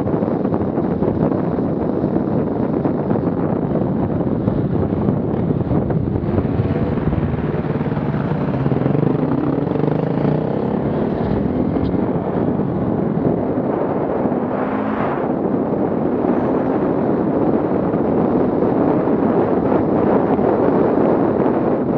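Off-road vehicle engines running and revving, with wind buffeting the microphone.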